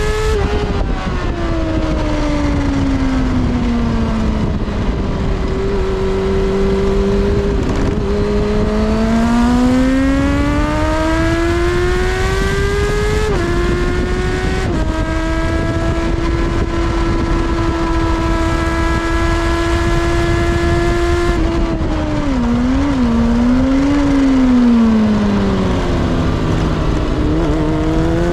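Kawasaki ZXR400's inline-four engine heard from on board through a track lap: the revs fall and climb again, jump with a gear change about 13 seconds in, hold a steady pitch for several seconds, then wobble through a few quick blips and drop low before climbing again near the end. A constant wind rush runs underneath.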